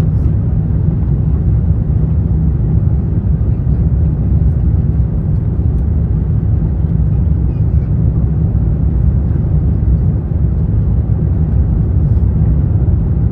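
Steady, loud low rumble inside the economy cabin of an Airbus A350-900: engine and airflow noise heard from a window seat, with no clear tones or changes.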